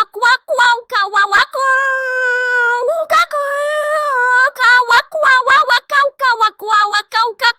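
Cute, high-pitched synthetic AI voice babbling quick nonsense syllables in a sing-song way. In the middle it holds two long notes, the second wavering slightly.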